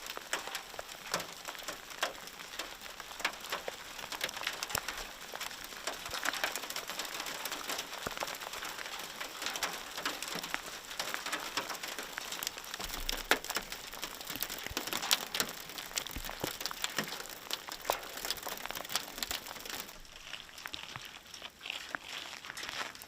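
A shower of volcanic lapilli, small cinders thrown out by an erupting volcano, falling onto the ground and nearby surfaces: a dense, irregular clatter of many small impacts with sharper single clicks scattered through it, like heavy rain.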